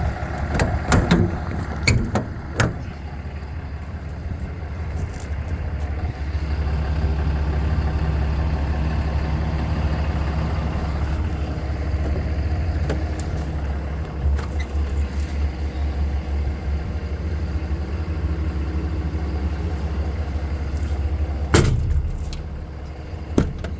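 Dodge 5500 service truck's engine idling steadily, warming up, its low hum growing louder about six seconds in. A few sharp knocks in the first seconds and a loud knock near the end.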